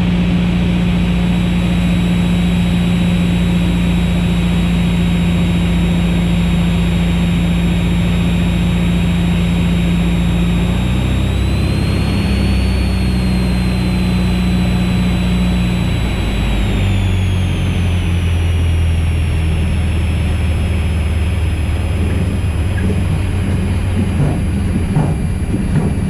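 Van's RV-8's piston engine and propeller running steadily at approach power, with the engine note changing about eleven seconds in and dropping to a lower, idle-like note about sixteen seconds in as power comes back for the landing. There are a few short knocks near the end.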